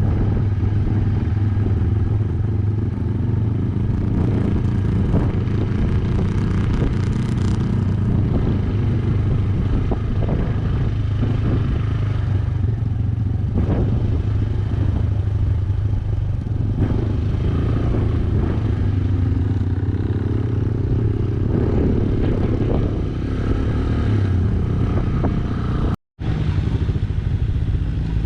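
Yamaha YBR125G's 125 cc single-cylinder four-stroke engine running steadily as the motorcycle rides along, with a few sharp clatters. The sound cuts out for a moment about two seconds before the end.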